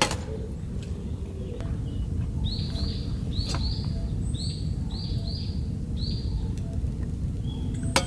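A bird calling in a series of short, arching chirps, several in quick pairs, over a steady low outdoor background noise. A sharp click comes at the very start and another near the end.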